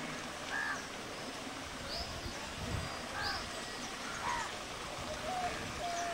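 Birds calling: about six short, scattered chirps, some high and some lower, over a steady background hiss.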